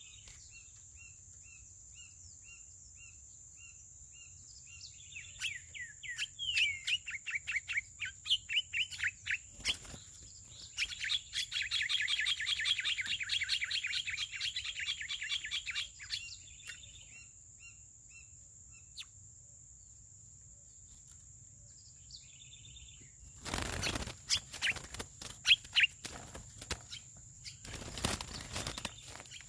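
Songbird, called a carrasco in Brazil, calling. It starts with a run of evenly spaced short chirps, goes into a faster string of sweeping notes, then a long rapid chattering trill. Near the end come several knocks and rustling.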